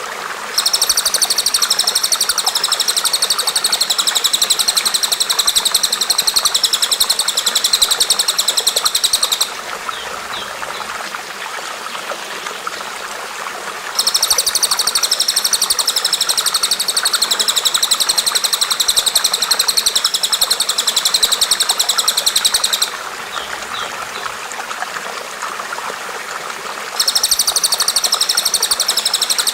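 Recorded songbird song: a very fast, high, buzzy trill repeated in long stretches of about nine seconds with pauses of about four seconds between them, over a steady background of softer chirps and hiss.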